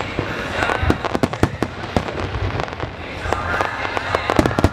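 Aerial fireworks exploding in an irregular string of sharp bangs and crackles, with a cluster of louder bangs near the end.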